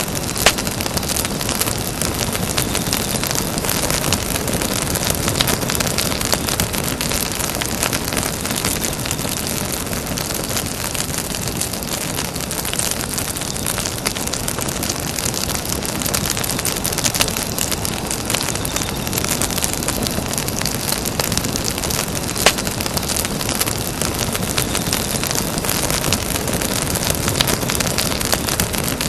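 Campfire burning: a steady hiss thick with small crackles of burning wood, with a sharper pop about half a second in and another about 22 seconds in.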